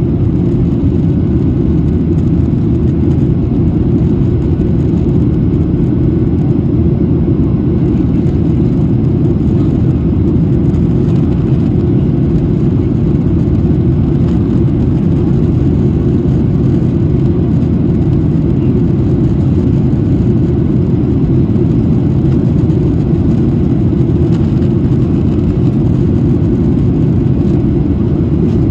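Steady cabin noise of a Boeing 737-800 in flight, heard inside the cabin: a constant low rumble from its CFM56 engines and the airflow, with no change in pitch or level.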